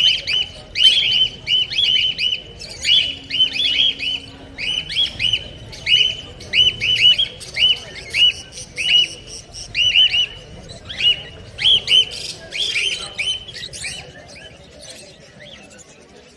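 Small market birds chirping: a fast, steady run of short, high, arched chirps, often in quick groups of two to four, dying away near the end.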